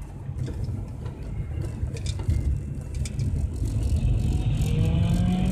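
Car engine and tyre noise on a wet track heard from inside the cabin, a steady low rumble; in the last second or so the engine note rises as the car accelerates out of the corner.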